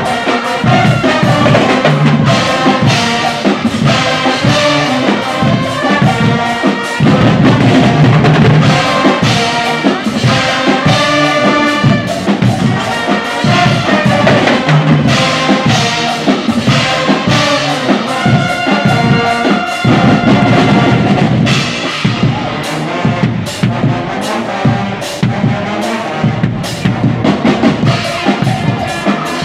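Guggenmusik carnival band playing live: loud brass, trumpets and trombones in chords, over a driving drum beat. About two-thirds of the way through the brass thins and the drums come to the front.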